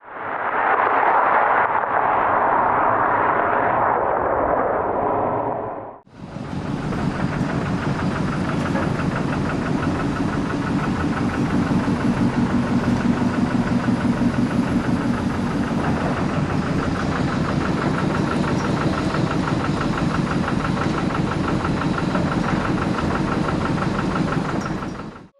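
A rushing noise for about six seconds, cut off sharply, then an engine running steadily with a fast, even pulse.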